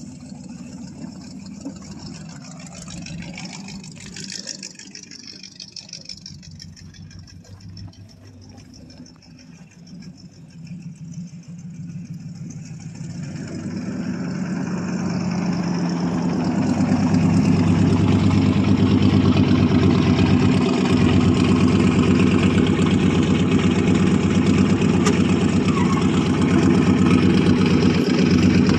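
1959 Buick Electra's 401 Nailhead V8 running, faint at first, then growing louder from about halfway through and settling into a loud, steady idle.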